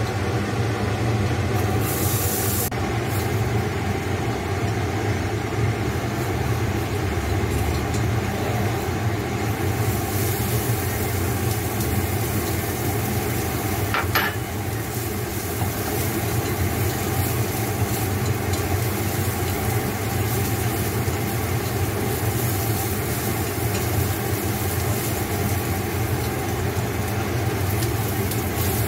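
Chopped vegetables sizzling in hot oil in a nonstick frying pan on a gas burner, stirred with a spatula, over a steady low hum. A short click about halfway through.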